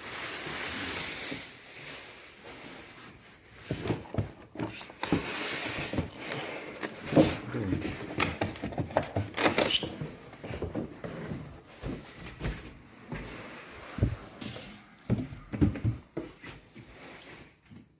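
Handling noise: irregular knocks, clunks and scrapes, with stretches of rustling, as a boxed loudspeaker and its packaging are handled.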